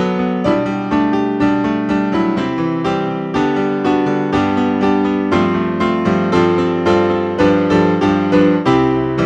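Solo piano playing a flowing piece, notes struck in a steady stream of several per second.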